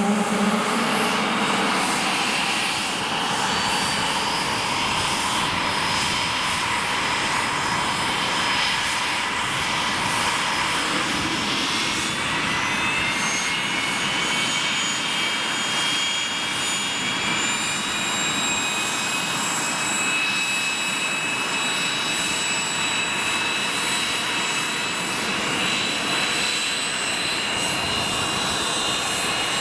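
Cessna CJ1 business jet's twin Williams FJ44 turbofans running: a steady rushing hiss with several high whines. About twelve seconds in the whines rise in pitch as the engines power up, then hold steady.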